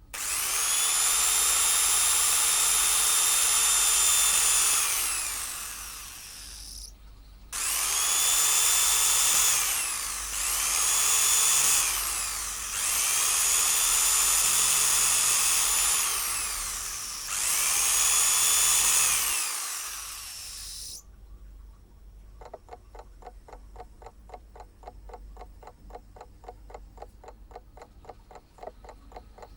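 An electric power tool motor run in five bursts, each whining up to speed, holding, then winding down. After a short pause, steady fast ticking begins.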